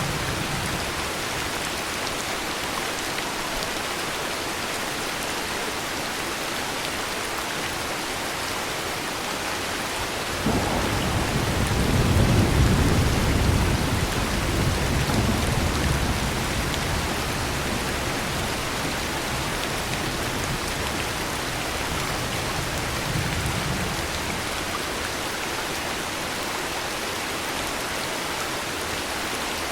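Steady heavy rain throughout. About a third of the way in a roll of thunder breaks in suddenly, is loudest for a few seconds, then rumbles away over the next ten seconds.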